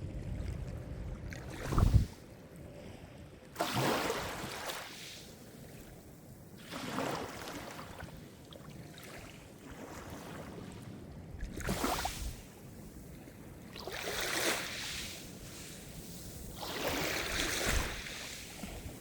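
Calm sea waves breaking and washing in on the shore, one surge every few seconds, about six in all. The first, about two seconds in, is the loudest and has a low thump.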